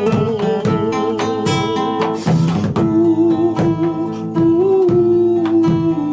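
Instrumental break in an Argentine folk song: a held, wavering melody line over plucked strings, with regular drum strokes. The melody drops to a lower note about three seconds in.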